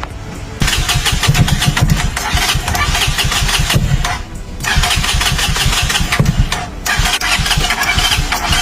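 Freshly restored Kawasaki Z900's inline-four engine catching about half a second in and running with rapid firing pulses. It drops away briefly twice, about four seconds in and again near seven seconds, before picking up again.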